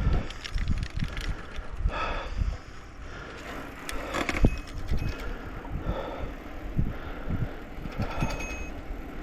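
A cyclist's heavy breathing right at the microphone, one loud breath about every two seconds, over the rumble and rattle of a bicycle on a rough trail. He is labouring hard in the heat.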